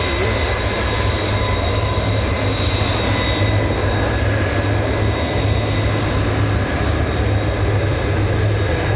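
Jet airliner engines running loud and steady: a deep rumble with a thin, steady high whine over it.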